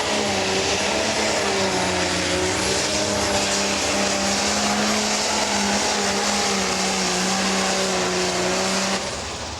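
Pro Stock pulling tractor's turbocharged diesel engine running hard at high revs, its pitch wavering slightly, until the sound drops away abruptly about nine seconds in.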